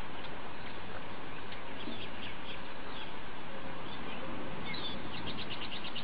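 Steady outdoor background hiss with faint, scattered chirps from small birds, ending in a quick trill of about eight rapid notes near the end.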